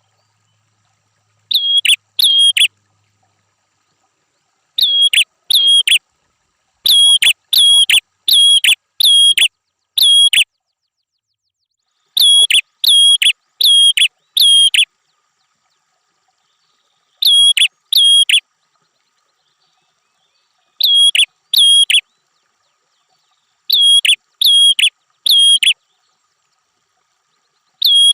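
Prenjak (prinia) calls: identical short, sharp notes repeated in quick series of two to five, with gaps of one to three seconds between series. A loud, clean masteran recording made for training songbirds.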